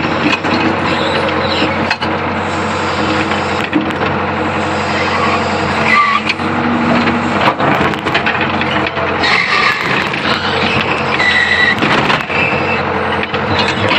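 Diesel engine of an old Hitachi UH025 hydraulic excavator running steadily under work, with scattered knocks and a few short high squeals from the machine as it moves.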